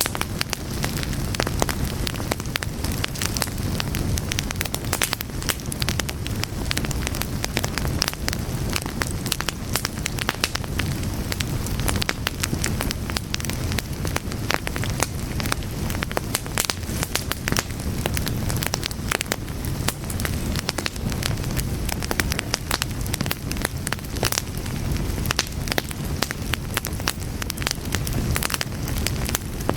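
Fire crackling steadily: a dense, irregular stream of sharp pops and snaps over a low rumble.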